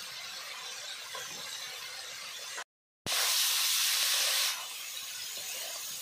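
Chicken pieces frying with spices in hot oil in a metal karai, a steady sizzle. There is a brief gap about two and a half seconds in, then a louder sizzle for about a second and a half before it settles back.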